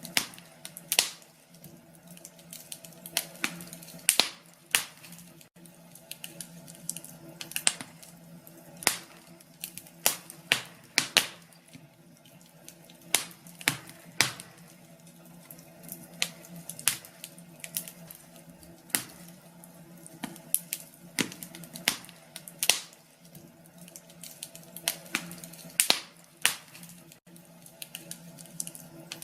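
Wood fire crackling in a fireplace: irregular sharp pops and snaps, up to a few a second, over a faint steady low hum.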